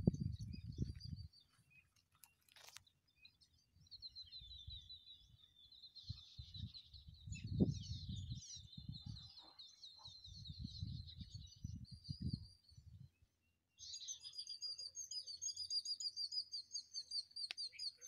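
Small birds calling: fast runs of high, rapidly repeated chirping notes, pausing briefly a little after halfway and then resuming with sharper, brighter chirps. Bursts of low rumbling noise come and go under the first two thirds.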